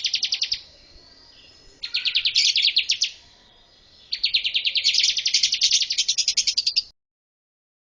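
Bar-winged prinia singing: fast trills of sharp, evenly repeated high notes, about ten a second, in three bursts. The third burst cuts off abruptly about seven seconds in.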